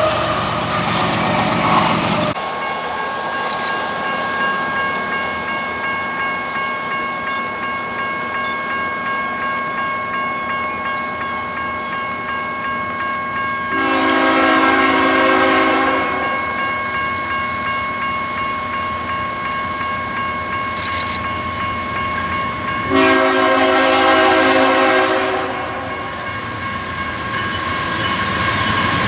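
Train running by on the rails while its locomotive horn sounds two long blasts, about nine seconds apart. A steady high ringing tone carries on underneath.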